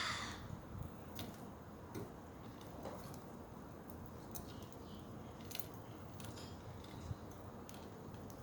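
Pet budgerigars in their cage, with faint irregular clicks and taps and a few soft chirps.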